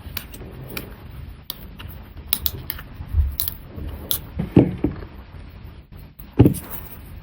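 Irregular small clicks and taps of watchmaking tools against watch parts at the workbench, with a couple of louder knocks in the second half.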